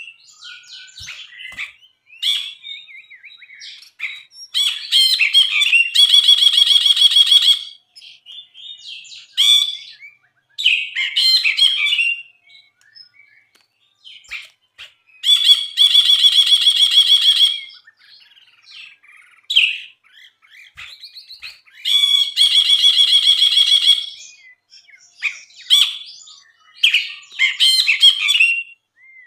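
Brinji (bulbul) singing: three long, harsh rattling phrases of two to three seconds each, with short chirps and quick notes in between.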